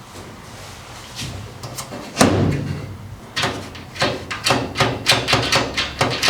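A single thud, then from about halfway a quick run of sharp knocks and clacks, two or three a second, like hard parts being handled or struck.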